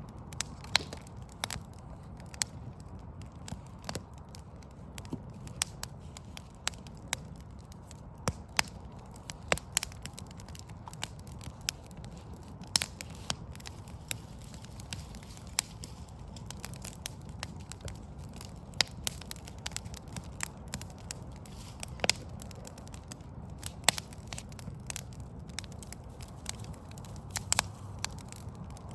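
Wood fire of burning logs crackling, with irregular sharp pops and snaps over a steady low background rumble.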